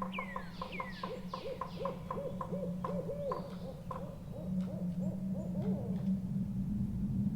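An owl hooting in a quick series of short notes for about six seconds. High, falling bird chirps are heard over the first two seconds, and a steady low drone runs underneath.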